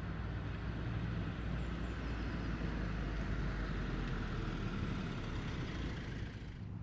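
A road vehicle passing, its engine rumble and tyre noise swelling and then fading away about six seconds in.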